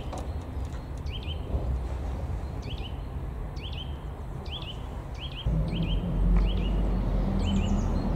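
A small songbird repeating a short two-note chirp over and over, over a low outdoor rumble. About five and a half seconds in, a low engine drone comes in and grows louder.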